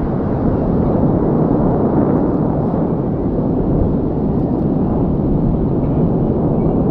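A formation of BAE Hawk jet trainers flying overhead through a loop, their Adour turbofan engines making a loud, steady rushing jet noise.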